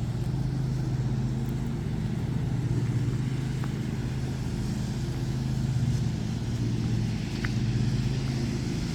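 Honda CR-V SUV's engine idling, a steady low hum heard from inside the car.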